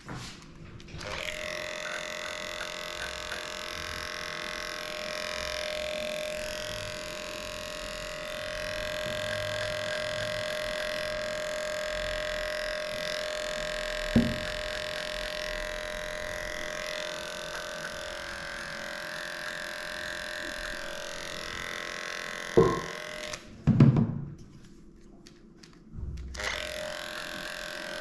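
Electric dog grooming clippers running with a steady hum while shaving matted coat. They start about a second in, stop for a few seconds near the end and start again, with a few loud knocks midway and around the stop.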